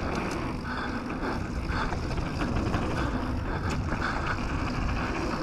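Canyon Torque mountain bike riding a dirt trail: a steady rolling rumble of tyres and frame, with light rattles and clicks.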